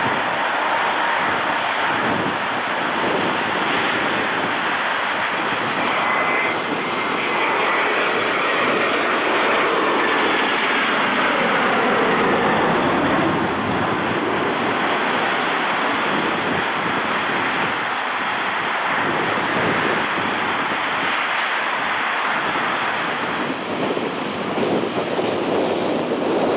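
A jet airliner's engines, loud and steady, as it passes the airport. A thin whine falls in pitch through the middle of the pass as the aircraft goes by.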